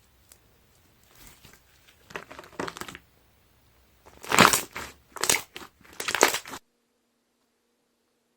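Air-filled slime being pressed and squeezed, the trapped air bubbles crackling and popping. Softer crackles come first, then three louder bursts of popping about four to six and a half seconds in, and it cuts off suddenly.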